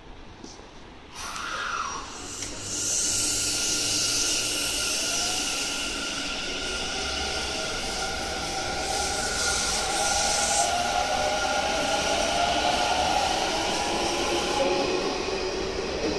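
Electric commuter train running along a station platform, its motors whining in tones that slowly rise in pitch as it gathers speed, with two spells of air hiss.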